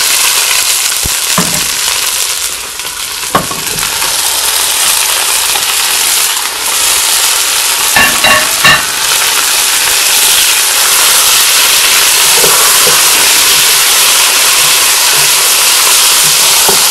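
Hot oil sizzling steadily as onions and potato pieces fry in a pot, with chopped tomatoes tipped in and stirred through with a wooden spatula. A few sharp clicks and knocks come through the sizzle, with a cluster of them about eight seconds in.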